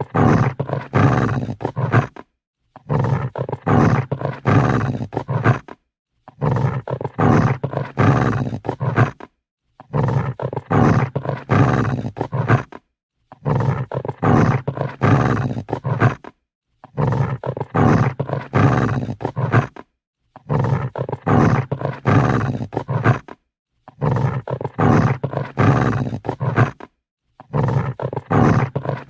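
Angry dog growling in long, rumbling snarls of about three seconds each, separated by short silences. The same growl repeats about every three and a half seconds, eight times over.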